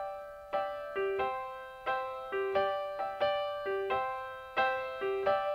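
Background music: a piano playing slow chords, each struck and then fading.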